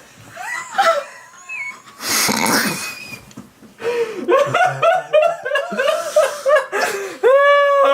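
A person's wordless vocal sounds: short gliding voiced cries, a breathy hiss about two seconds in, then a fast run of short rising-and-falling syllables and one long held note near the end.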